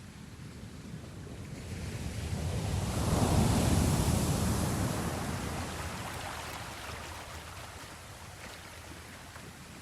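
Sea waves: one wave swells up and washes away, loudest a few seconds in, then subsides into a low steady wash.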